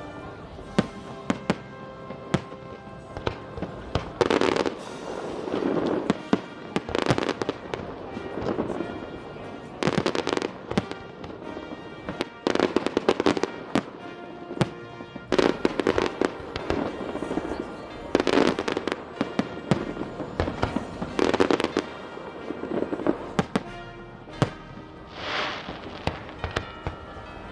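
Aerial fireworks display: sharp bangs and crackling bursts every two to three seconds, over music playing throughout.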